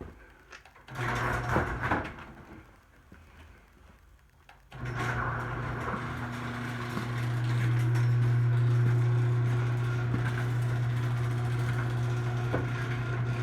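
A brief rustle and clatter about a second in, then from about five seconds in a steady low mechanical hum, like a small motor running.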